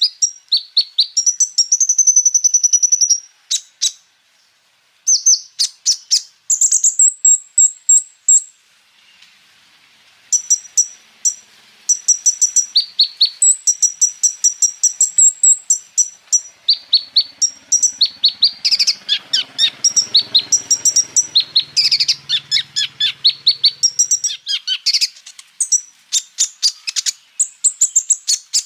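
A kolibri ninja (konin) singing a rapid string of high, sharp chirps and trills, with brief pauses between phrases. The song is thick with mimicked fills (isian) of other birds. The chirping grows denser for a few seconds after the middle.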